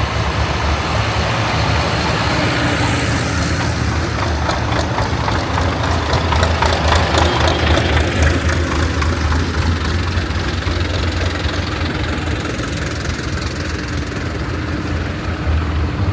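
Tractor diesel engines running steadily with a low hum, growing louder with a rapid rattle for a few seconds in the middle as a tractor passes.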